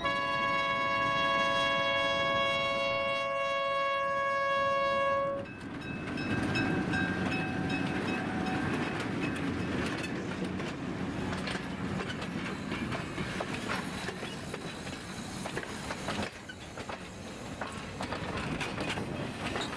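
Diesel switcher locomotive's air horn sounding one long chord at the road crossing, cutting off about five seconds in. Then the locomotive and its string of passenger cars and a boxcar roll past close by, with a steady rumble and wheels clicking over the rail joints.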